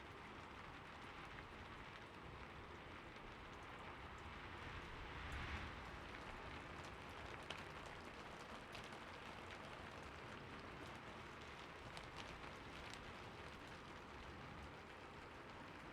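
Light, steady rain falling, faint, with scattered individual drops ticking sharply now and then and a brief swell about five seconds in.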